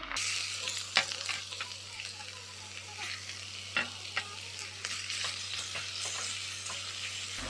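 Beef shortplate, cabbage and sauce sizzling in a nonstick frying pan as a wooden spoon stirs through them, with a few sharp knocks of the spoon against the pan, the loudest about a second in and two more near the middle.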